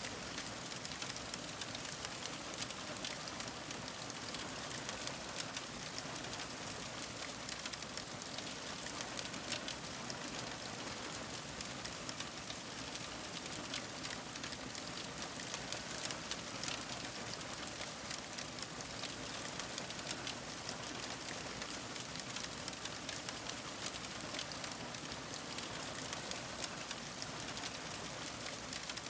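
Wood fire crackling steadily: a constant hiss dotted with many small snaps and pops.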